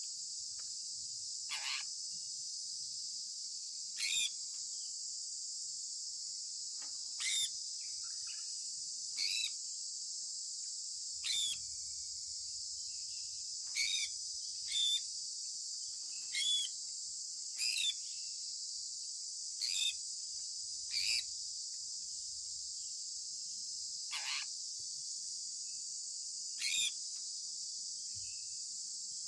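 Sun conure giving short, sharp chirps, about thirteen of them at irregular gaps of one to three seconds, each dropping quickly in pitch. Behind them is a steady high insect chorus.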